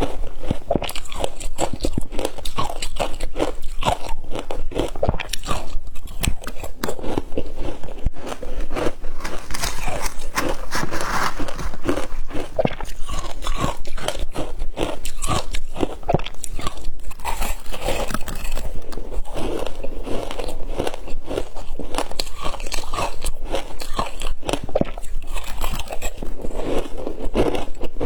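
Shaved ice being bitten and chewed close to the microphone: a dense, continuous run of crisp crunches and crackles.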